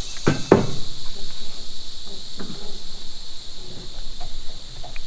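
Steady high-pitched chorus of insects singing, with a few faint clicks and a brief short sound near the start.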